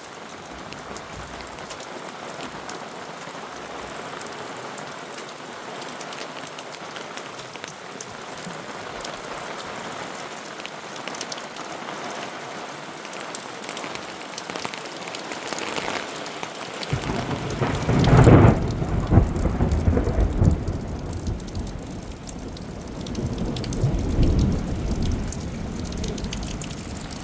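Steady rain-like hiss; about two-thirds of the way in a deep rumble starts suddenly, loudest a second later, with a second swell near the end, as of thunder in a rainstorm.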